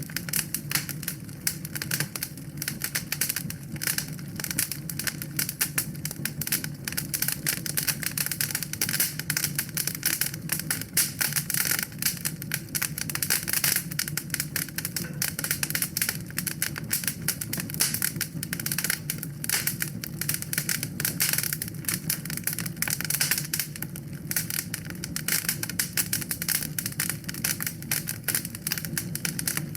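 Wood fire crackling steadily in a fireplace, a dense stream of small snaps and pops over a low, even rumble.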